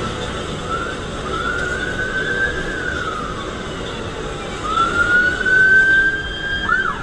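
Siren wailing over steady road noise: the tone rises, holds and falls back twice, with a quick yelp-like wobble near the end.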